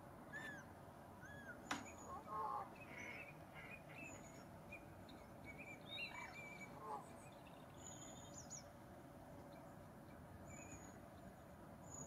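Faint, scattered chirps and short calls of wild birds over a steady low hiss, with one sharp click a little under two seconds in.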